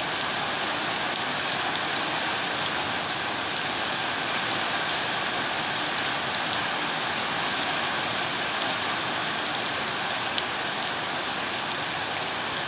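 Steady rain falling: an even hiss of many drops with scattered sharper drop hits.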